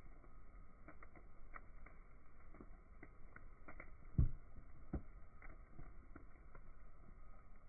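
Bonfire crackling, with scattered irregular pops and one louder thump about four seconds in.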